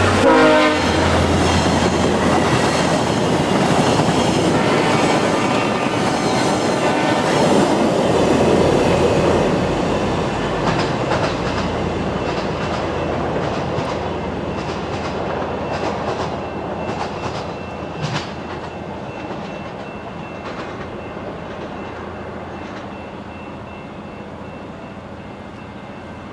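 VIA Rail passenger train passing at speed, about 63 mph: just after the start the locomotive's sound drops in pitch as it goes by, then the coaches roll past with wheels clacking over rail joints. The sound fades steadily as the train moves away.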